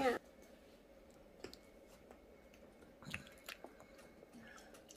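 Faint, scattered clicks and soft crunches of children biting into and chewing chocolate figures, a single one about a second and a half in and a small cluster around three seconds.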